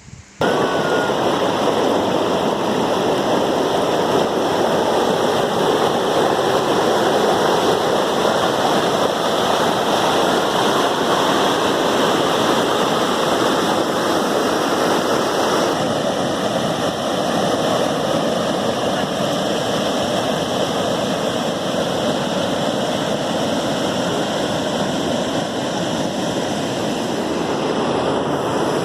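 A river in spate after heavy rain: a loud, steady rush of water. The sound shifts a little past halfway.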